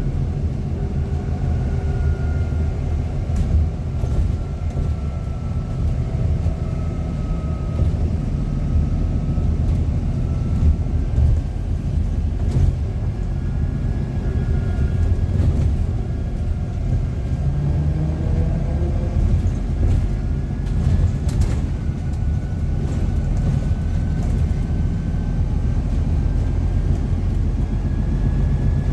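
A bus heard from on board while under way: a steady low engine and road rumble, with faint whining tones from the drivetrain that slowly rise and fall as the speed changes. A few sharp knocks or rattles sound over it.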